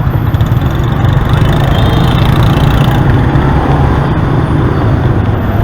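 Road noise from a moving motorbike in city traffic: a loud, steady low rumble of wind and vehicle engines.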